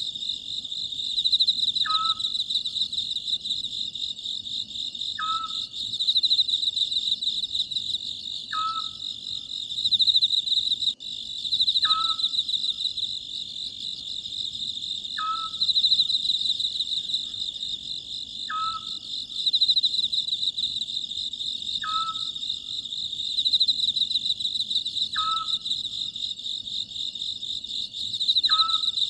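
Oriental scops owl calling: one short call about every three seconds. Insects keep up a steady high chirring underneath.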